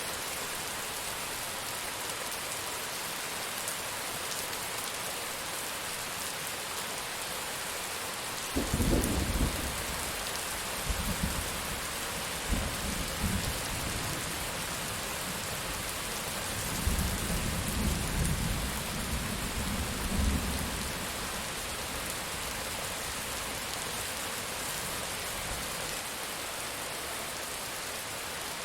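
Steady heavy rain with a rumble of thunder: a sudden low crack about eight seconds in, then rolling swells that die away about twenty seconds in.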